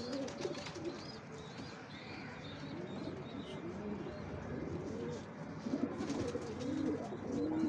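A loft of domestic pigeons cooing, many coos overlapping, with small birds chirping faintly in the background.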